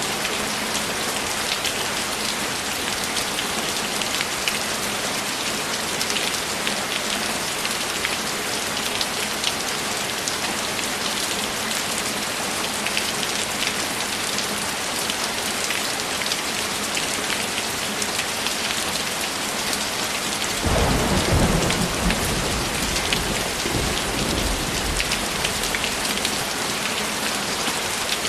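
Steady heavy rain falling, with a low roll of thunder that comes in about three-quarters of the way through and rumbles for about four seconds before fading.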